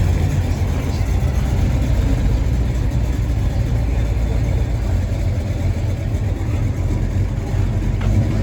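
Car engine idling with a deep, steady low rumble.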